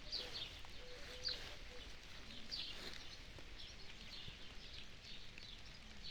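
Small birds chirping, short high calls repeated every second or so, fairly faint.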